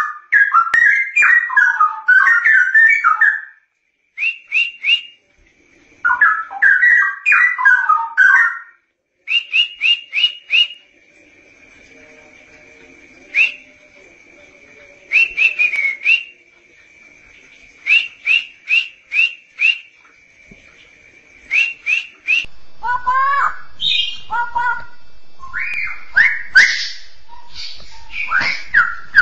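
Straw-headed bulbul (cucak rowo) singing: loud bubbling, warbled whistled phrases, then runs of short sharp whistle notes over a faint steady high tone, with busier mixed calls near the end.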